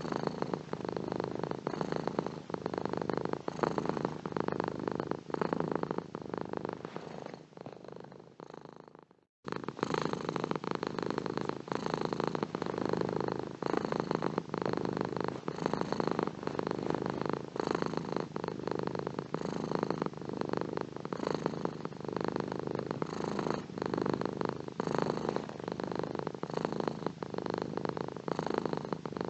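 Domestic cat purring steadily with a fast, even pulse. About nine seconds in, the purr fades out to a moment of silence, then starts again abruptly.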